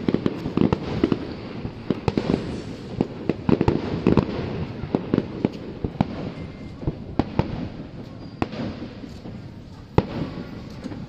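Fireworks display: rapid, irregular bangs and crackling pops, several a second, thinning out in the second half, with one sharp louder bang near the end.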